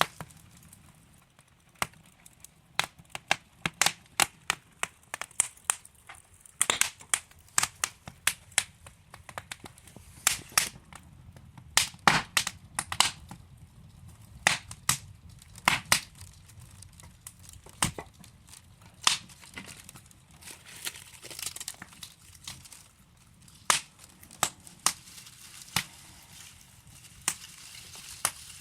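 Wood fire crackling: burning logs give off sharp, irregular pops and snaps over a low hiss, with a busier run of pops in the middle.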